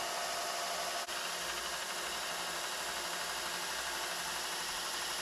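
Steel knife blade being sanded with abrasive: a steady rubbing scrape that breaks off for an instant about a second in.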